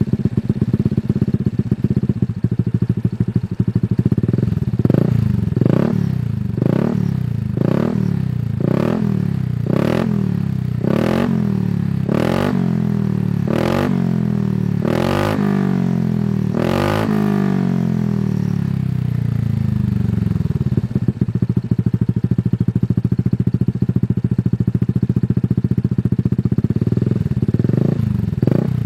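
An engine running steadily, its throttle blipped about once a second through the middle of the stretch, each rev dropping back, before it settles to a steady idle again.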